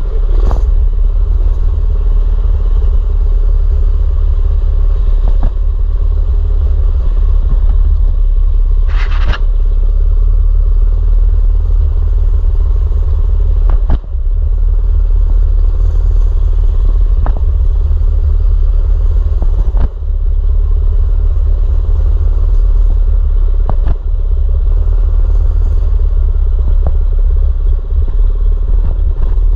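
Mini bike engine running steadily while riding, under heavy low wind rumble on the microphone. Occasional knocks and rattles come from the bike going over bumps, with one louder rattle about a third of the way through.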